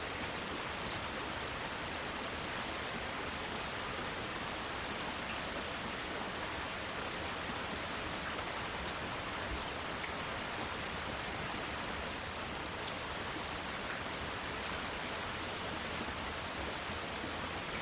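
Steady rain falling, an even hiss with faint ticks of individual drops scattered through it.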